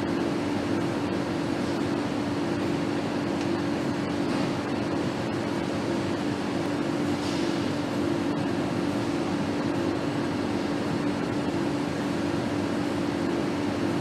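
Steady hum and hiss of factory machinery and ventilation, with a constant drone and a few faint clicks.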